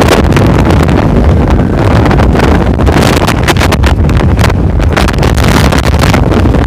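Loud, distorted wind buffeting on the microphone over the rumble of a moving off-road vehicle.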